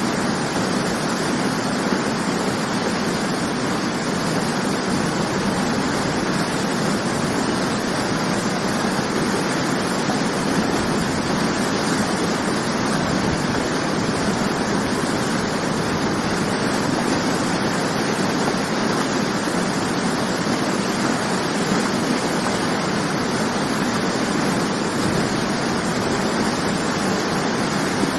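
Waterfall: water falling and rushing in a steady, unbroken roar with no change throughout.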